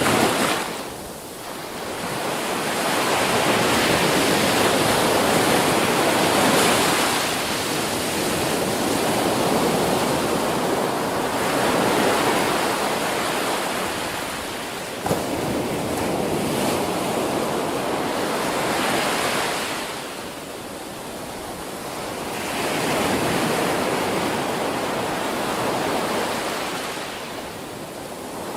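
Ocean surf crashing on a beach, a continuous rush that swells and eases as each wave breaks and draws back, every several seconds. A single sharp click sounds about halfway through.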